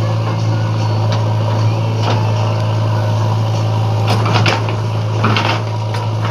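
Tractor engine running at a steady speed with a constant low hum, joined by two brief noisy rattles about four and five seconds in.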